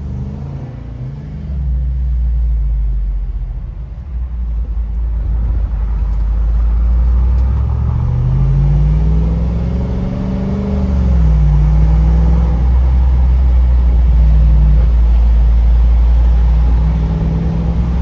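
Jeep Wrangler 392's 6.4-litre HEMI V8 running under way, a deep steady rumble. About eight seconds in it revs up for a couple of seconds, then drops back to a steady cruise.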